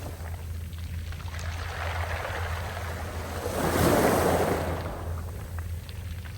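A sea wave rolls in and breaks, swelling to its loudest about four seconds in and then washing back, over a steady low rumble.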